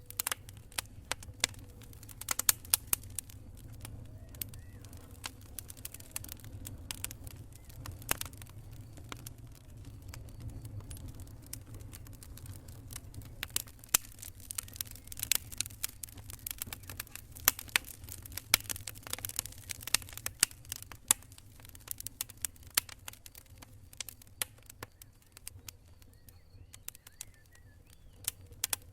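Burning campfire wood crackling and popping in quick irregular snaps, busiest in the middle, over a steady low rumble.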